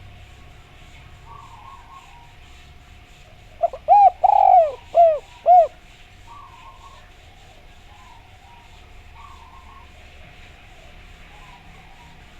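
Spotted dove (derkuku) cooing: one phrase near the middle, a short first note, a long drawn-out note and then two short notes. A faint steady hum and faint repeated chirping of other birds sit underneath.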